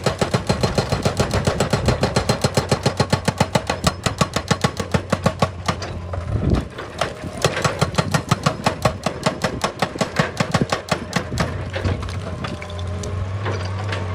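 Excavator-mounted hydraulic rock breaker hammering on stone in rapid, even blows, several a second, over the steady hum of the machine's diesel engine. The hammering stops briefly about halfway and thins out near the end, leaving mostly the engine.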